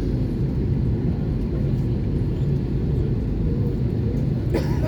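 Steady low rumble and hum inside an Airbus A320 cabin parked at the gate, the cabin air-conditioning and ventilation running before engine start. A brief sharp clatter near the end.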